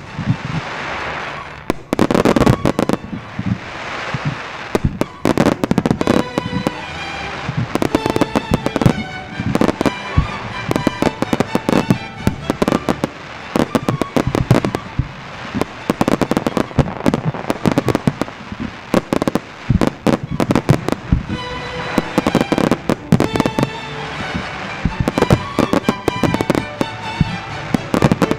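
A fireworks display going off in rapid, dense succession: many sharp bangs and crackles, several a second, over the show's synchronised music.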